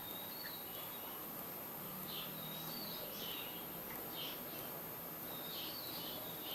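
Small birds chirping repeatedly in short high calls, with a few brief whistled notes, over a steady background hiss.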